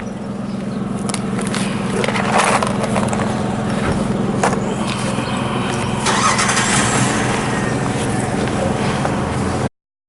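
A vehicle engine running steadily close by, growing slightly louder, with a few sharp knocks over it. The sound cuts off abruptly near the end.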